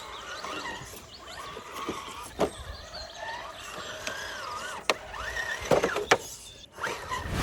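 Electric motor and gear drive of a 1/10-scale RC rock crawler whining, the pitch rising and falling as the throttle is worked, with a few sharp knocks.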